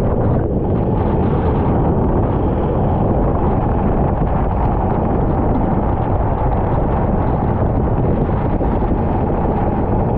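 Racing kart engine running steadily at speed, heard from onboard and largely masked by heavy wind buffeting on the microphone.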